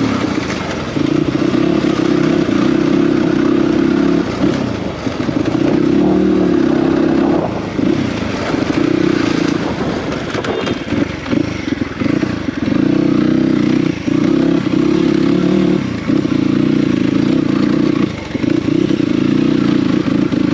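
Dirt bike engine running under load, the throttle opening and closing every second or two, with some clatter from the bike in the middle stretch.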